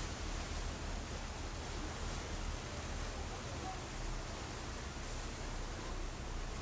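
Steady rushing noise of wind and churning sea water around a sightseeing boat on the open deck, with a low rumble underneath.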